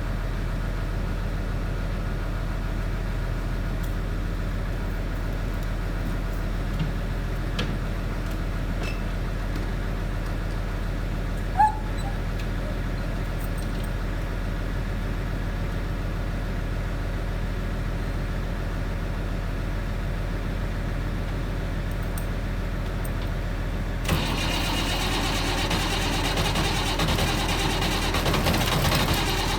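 Allis-Chalmers 185 tractor engine running after a cold start in freezing weather: a steady low drone that grows louder and rougher near the end.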